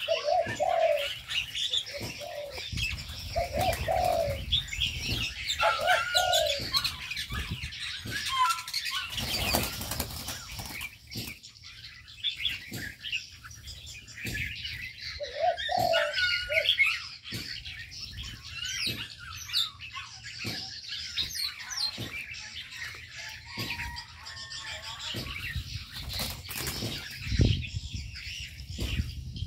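Aviary birds: doves cooing in low repeated notes, mostly in the first few seconds and again about halfway, over a constant chatter of small birds chirping and the flutter of wings as birds fly about.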